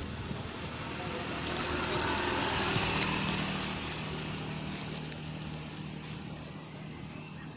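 A motor vehicle passing, its noise swelling to a peak about three seconds in and then fading away, with a steady low engine hum.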